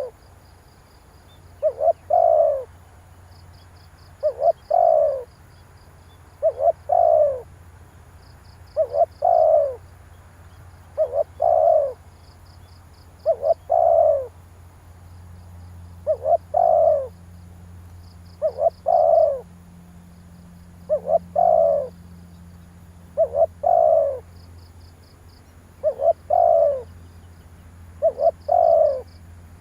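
Spotted dove cooing, repeating its two-part call about every two seconds: a short note, then a longer one that falls in pitch. This is the male's cooing used as a lure call to stir up wild doves.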